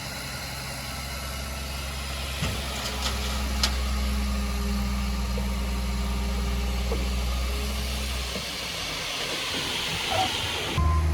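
A heavy diesel engine on earthmoving equipment running steadily. It builds up about three seconds in, settles back around eight seconds, and a few faint clanks sound early on. Near the end it cuts abruptly to a louder engine.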